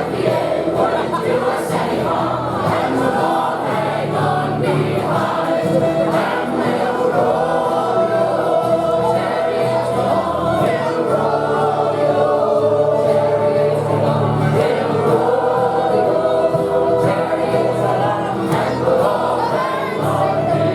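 A group of voices singing a song together in harmony, holding long notes.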